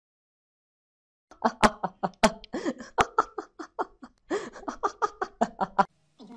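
A young man laughing hard in rapid bursts, starting about a second and a half in and stopping shortly before the end, with three sharp clicks in the first half of the laughter.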